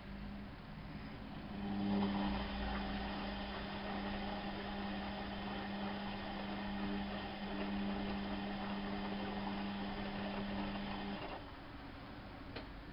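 Bauknecht WAP 6460 washing machine running: a steady motor hum with a hiss builds up, runs evenly for about nine seconds, then stops sharply, with a single click near the end.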